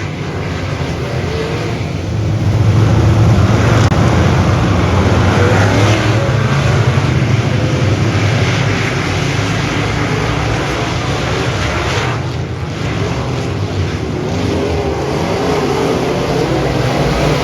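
Dirt-track modified race car engines running at speed, their pitch wavering up and down as they go around the track, getting louder about two seconds in.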